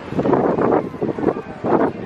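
Wind buffeting the microphone in irregular, rumbling gusts.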